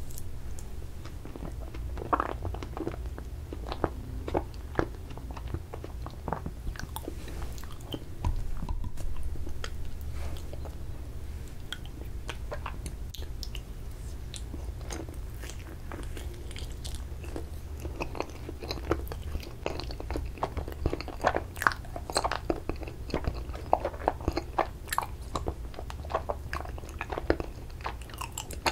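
Close-miked eating: a mouthful of ice cream from a spoon, then bites into and chewing of a strawberry ice-cream mochi. Soft sticky mouth clicks and smacks grow thick and fast in the second half, over a steady low hum.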